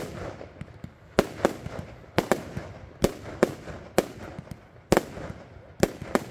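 Fireworks going off: a rapid, irregular series of about ten sharp bangs, some in quick pairs.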